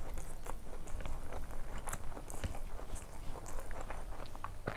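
Close-miked chewing of a mouthful of rice, with many small wet mouth clicks, while fingers mix rice on the plate.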